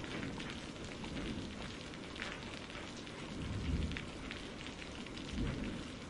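Steady rain falling, a soft even hiss of drops. Twice, about halfway through and again near the end, a low rumble swells briefly under it.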